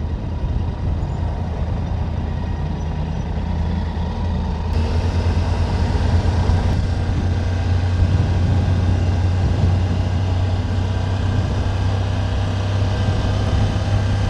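Triumph Tiger 900 GT Pro's three-cylinder engine running steadily as the motorcycle is ridden, with a rush of wind and road noise. About five seconds in, the noise grows brighter and a little louder.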